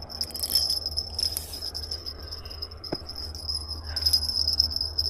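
Insects trilling steadily in one high band, over a low rumble, with a few short, sharp clicks.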